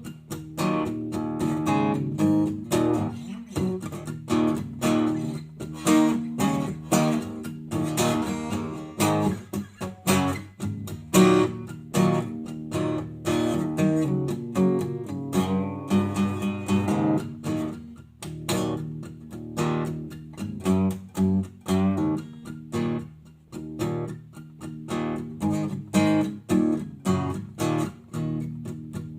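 Guitar strummed in a steady, even rhythm of chords.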